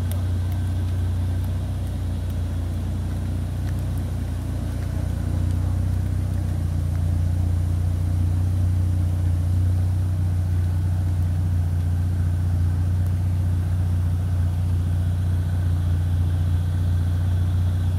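A car engine idling steadily close by, a constant low hum that grows a little louder about six seconds in.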